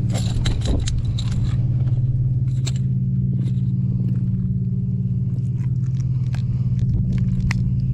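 A steady low hum of an idling motor, with scattered clicks and scrapes over it.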